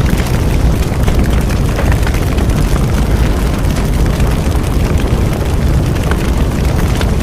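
Bonfire burning with a loud, steady low rumble and many small crackles and snaps scattered throughout.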